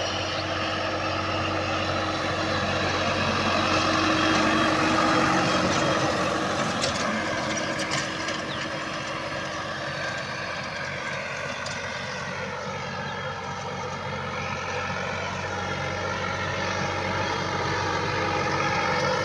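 Tractor engine running under load while plowing dry land, a steady drone whose pitch sags a little about two-thirds of the way through and then picks up again.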